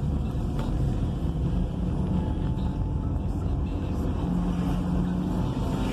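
Vehicle engine running steadily while driving, a low drone heard from inside the cab.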